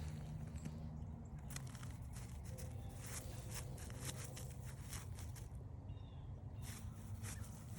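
Footsteps crunching on a forest trail, irregular crackling steps with short pauses, over a steady low rumble.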